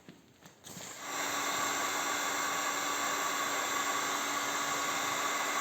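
An electric heat gun switches on about a second in and runs steadily, a fan hiss with a steady whine. It is heating an aluminium engine pulley so that it expands and comes off the shaft.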